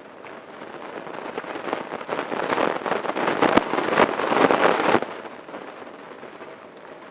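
A dense crackling, rustling noise that builds over a few seconds and cuts off sharply about five seconds in.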